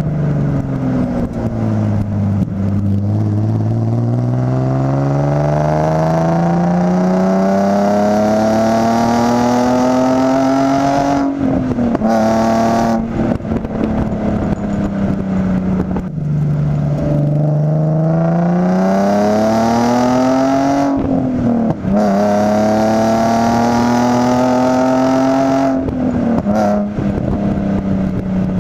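Nissan 350Z's VQ35HR V6 running through an Injen aftermarket exhaust, heard from an outside-mounted microphone while the car is driven. The note drops off at first, then climbs steadily under acceleration and falls sharply at an upshift, about ten seconds in. It climbs and drops at another upshift near two-thirds of the way through, then climbs and drops once more near the end.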